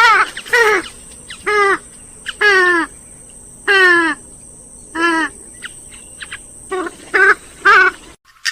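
Grey-headed swamphen giving a series of loud, pitched calls that fall in pitch, repeated roughly once a second. Three shorter, quicker notes come near the end, then the sound cuts off abruptly.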